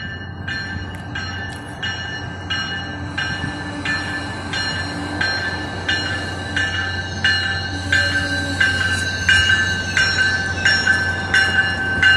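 Commuter-rail locomotive bell ringing steadily, about three strikes every two seconds, over the low rumble of the approaching train. Both grow louder toward the end.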